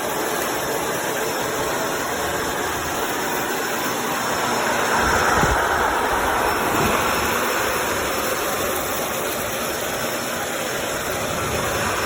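Upright vacuum cleaner running steadily, a loud even whirring hiss that starts abruptly and grows slightly brighter about five seconds in.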